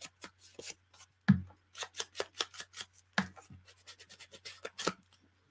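Scissors snipping paper in a run of short, irregular cuts, with one louder knock about a second in.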